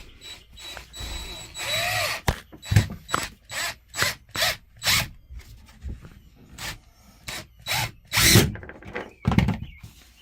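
Power drill driving a long screw into a sleeper-bunk support in short bursts, mixed with irregular knocks and bumps.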